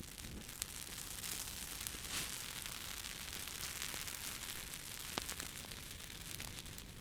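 Wood fire crackling in a fireplace: a steady hiss with a few sharp pops, one about half a second in and another about five seconds in.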